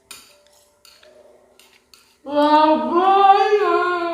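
Faint clicks of chopsticks against a plate, then, about two seconds in, a voice singing one long, wavering note that is the loudest sound.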